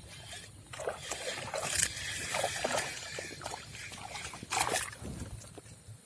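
Water sloshing and splashing in a few short, irregular bursts.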